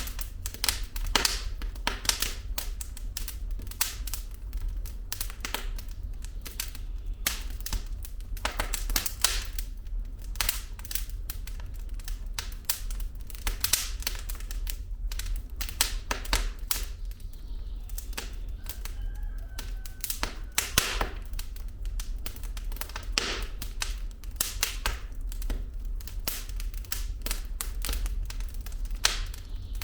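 Wood fire in a fireplace crackling, with dense irregular sharp pops and snaps of burning logs over a steady low rumble of the flames. A faint brief whistle comes about eighteen seconds in.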